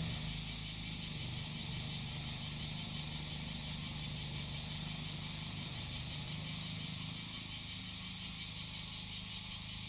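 Small engine of a grass-cutting machine running steadily at a low, even speed, under a dense, high-pitched chorus of cicadas.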